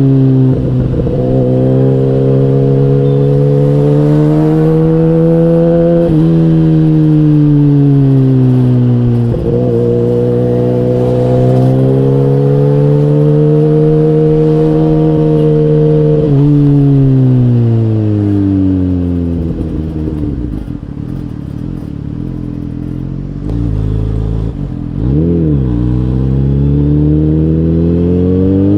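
KTM Duke 125's single-cylinder engine pulling hard through the gears. Its note climbs and drops sharply at each upshift, about 6 and 9 seconds in. It then winds down as the throttle is closed, blips once, and climbs again near the end.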